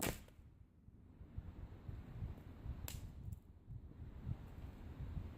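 Axe chopping spruce wood: two sharp strikes about three seconds apart, with low rustling and handling noise between them.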